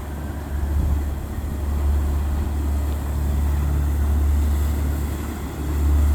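Motorboat engines running, a deep steady rumble that dips briefly and grows louder near the end.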